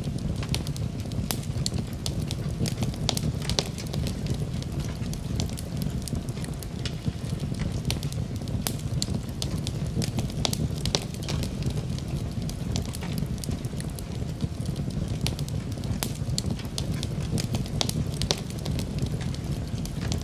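Wood fire burning steadily with a low rumble, and frequent sharp crackles and pops of burning wood.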